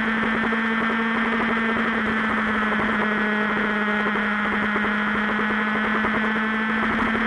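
Motorcycle engine running at a steady speed while riding, a constant drone mixed with a loud rushing noise.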